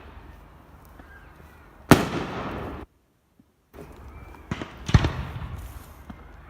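Fireworks exploding at a public display: a sharp bang about two seconds in with a rumbling tail, then a few pops and another loud bang about five seconds in. The sound cuts out completely for under a second between them.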